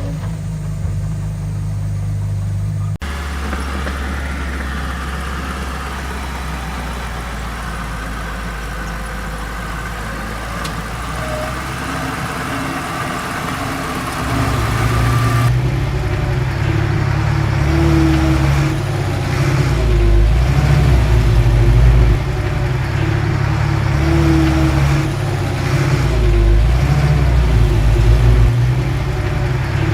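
Diesel engines of heavy construction machinery running and working under load. The engine sound changes abruptly twice and grows louder and fuller in the second half.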